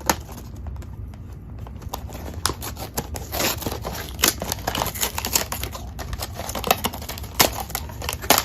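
Mystery-toy blind box being opened by hand: an irregular run of clicks, tearing and crinkling of the cardboard and packaging.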